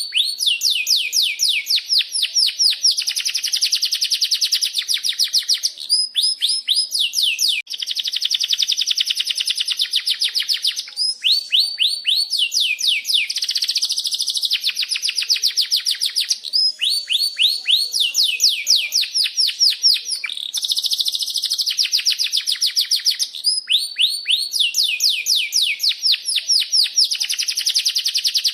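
Domestic canary singing a long, unbroken song of rapid rolling trills: quick series of repeated high 'cuit' notes, switching to a new trill every couple of seconds.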